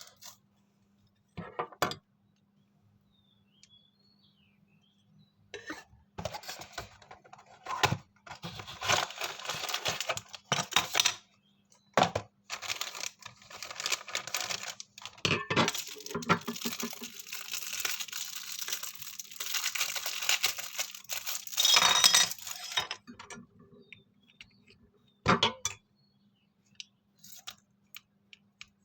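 Hands unpacking small model airliners from their packaging: rustling and tearing of wrapping in bursts, with scattered clicks and light clinks, over a faint steady hum.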